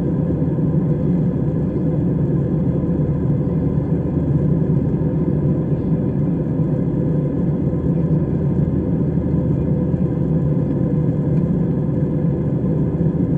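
Steady engine and airflow rumble of an airliner in flight, heard inside the passenger cabin.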